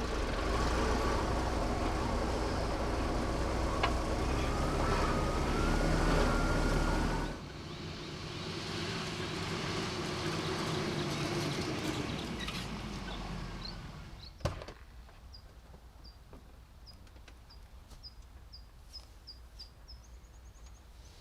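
Old 4x4 truck engine running, loud and steady for about seven seconds with a slowly rising whine, then quieter after a cut and fading away. A single sharp knock comes near the middle, and after it birds give a run of short, high chirps in near quiet.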